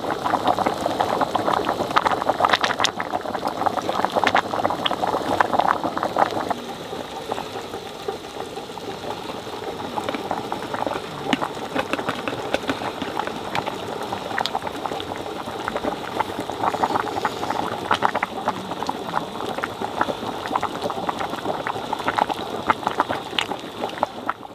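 Damp, nearly green firewood burning poorly, with a steady sizzle and dense fine crackling, a little quieter after about six seconds; the sizzle is the sign of wood too wet to burn properly.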